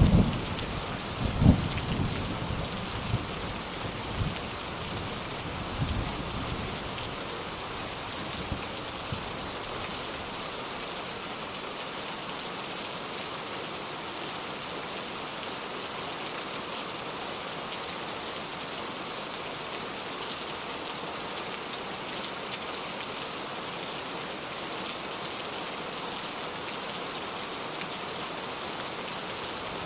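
Steady rain, an even hiss of drops falling on surfaces. Low rolls of thunder rumble through the first few seconds and die away.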